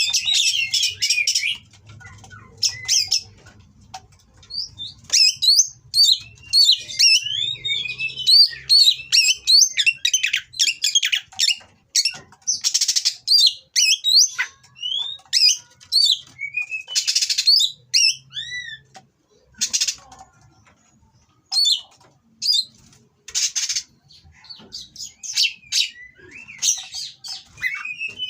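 Oriental magpie-robin singing a rapid, varied song of sliding whistles and chirps, broken by several short harsh rasping notes and a few brief pauses.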